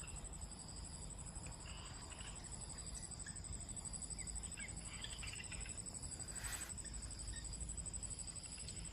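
Insects trilling steadily in a high, evenly pulsing chorus, with a few short bird chirps scattered through the middle and a low rumble underneath.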